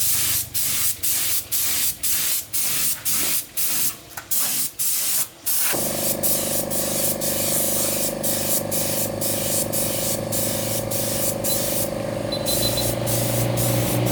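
Spray hissing in short rapid bursts, about two or three a second, then from about six seconds a continuous hiss with a steady motor hum under it.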